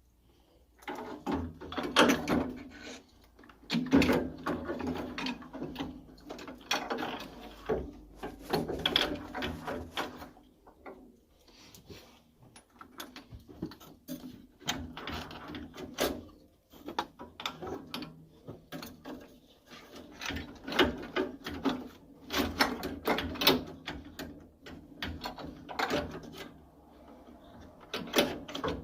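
Hand tools and metal parts being handled while working on a combi boiler: irregular clicks, knocks and rattles in bursts, with short pauses between.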